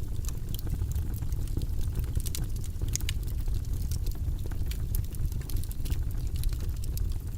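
Wood fire crackling in a fireplace: many small, sharp pops and snaps over a steady low rumble, with a louder pop about three seconds in.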